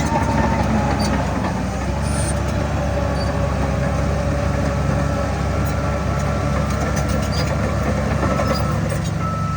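Heavy diesel earthmoving machinery running steadily under load, a continuous low engine rumble with faint metallic squeaks and clicks.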